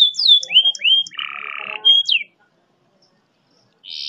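Domestic canary singing: a run of quick downward-sliding whistles, then a few rising notes, a short harsh buzzy phrase and a falling note. After a pause of about a second and a half, a fast, dense roll (trill) begins near the end.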